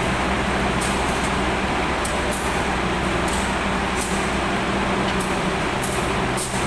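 Steady rumble and low hum inside a passenger train carriage, with faint irregular ticks over it.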